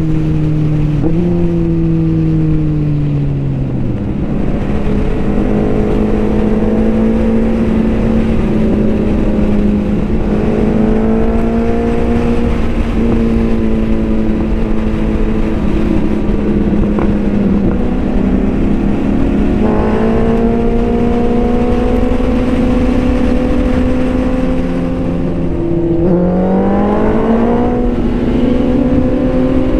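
Motorcycle engine running loud and steady under way at highway speed, its pitch stepping down early on as gears change, then slowly rising with the throttle, dipping and climbing again near the end. A constant wind rush sits beneath it.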